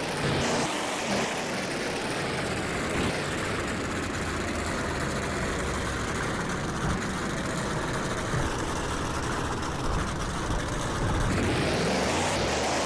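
Large truck engine running loudly in a freestyle run, its pitch rising as it revs up about eleven seconds in.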